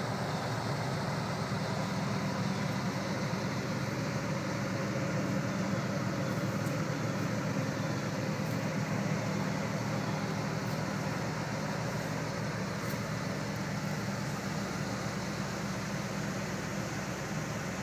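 A 1979 Corvette Stingray's L82 350 small-block V8 idling steadily, a low, even rumble.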